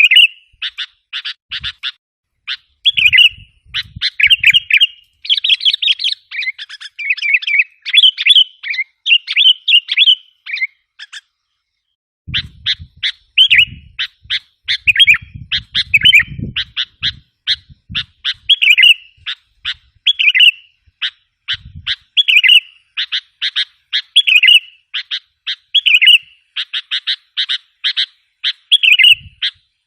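Sooty-headed bulbul (kutilang) lure call: rapid chattering chirps and short bright phrases repeated almost without pause, with one short break about eleven seconds in.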